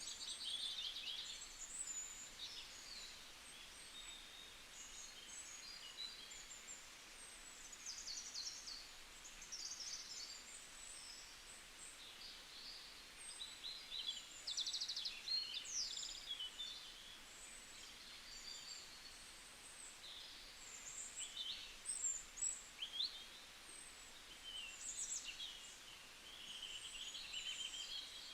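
Several small birds chirping and singing in quick, overlapping high phrases and trills that continue one after another, over a faint outdoor hiss.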